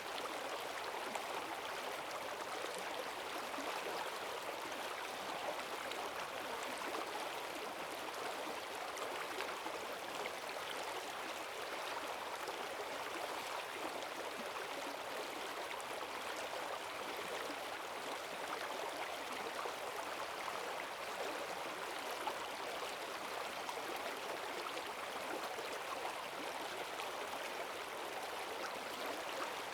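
Forest stream running fast and full after heavy rain: a steady rush and gurgle of water over its bed, even throughout.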